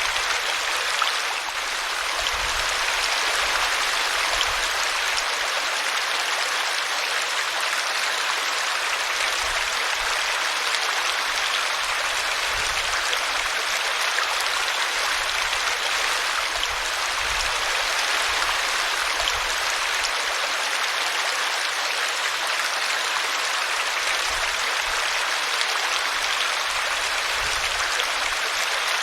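Small woodland brook splashing over a tree root, a steady babble of running water.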